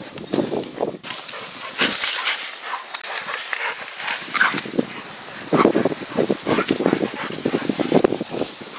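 Shepherd dogs growling and snarling in irregular bursts while attacking a wild boar.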